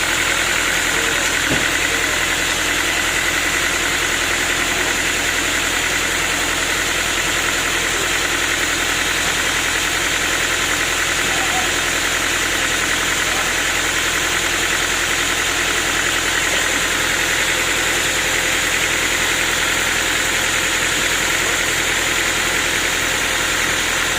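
Sawmill machinery running steadily: a constant engine-like drone with a high, even whine over it.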